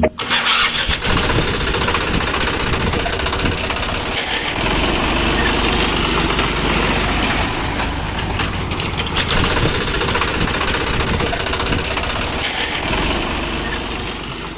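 Small motor running continuously with a dense, rattling mechanical noise, typical of a miniature tractor's motor and gears working.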